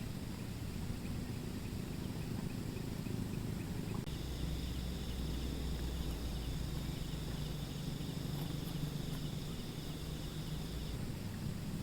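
An insect trilling in rapid pulses, starting about four seconds in and stopping shortly before the end, over a low steady rumble.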